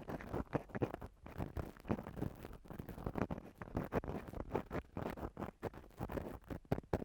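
ASMR ear cleaning: an ear-cleaning tool scratching and rubbing against the microphone in quick, irregular strokes.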